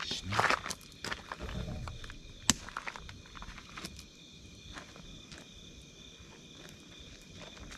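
Wood campfire crackling, with scattered pops and one sharp pop about two and a half seconds in, over a steady chorus of night insects. A louder rustling crunch near the start.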